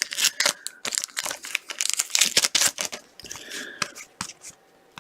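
Hockey-card pack wrapper being torn open and crinkled, with a run of quick rustles and clicks from cards being handled.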